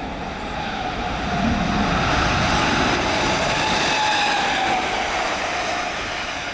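Electric multiple unit running past at close range: wheel and rail rumble with a steady rushing noise, loudest in the middle, over a thin motor whine that falls slowly in pitch.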